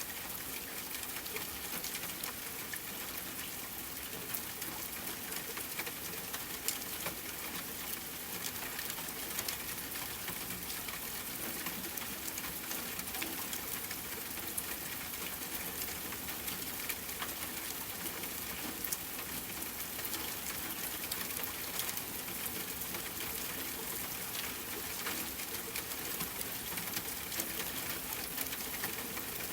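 Steady rainfall with a crackling fireplace, sharp pops and snaps scattered through the rain.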